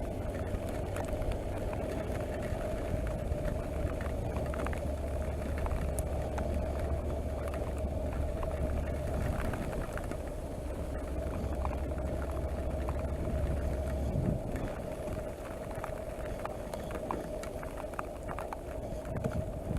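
Honda NC700X motorcycle's parallel-twin engine running at riding speed, heard over steady wind and road noise. The low rumble drops away about fourteen seconds in.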